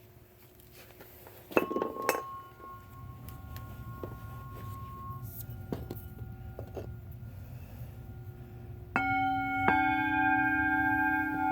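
Singing bowls clinking as they are handled, one ringing on with a steady tone for a few seconds. Near the end a bowl is struck twice and rings on with several overtones.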